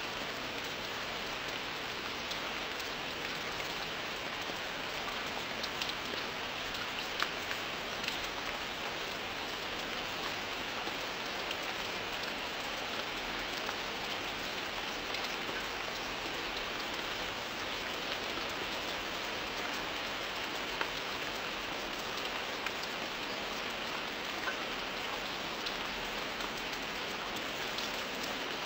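Rain falling steadily, an even hiss of drops on a surface, with a few sharper drop ticks now and then.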